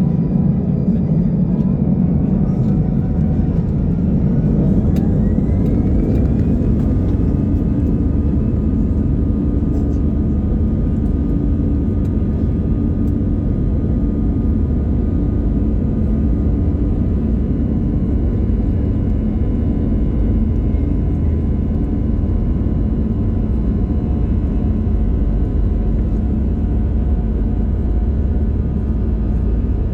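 Heard from inside the cabin, an Airbus A320-214's CFM56 engines spool up: a whine rises in pitch over the first several seconds, then holds steady at high thrust. Beneath it is a strong continuous low rumble, typical of the takeoff roll.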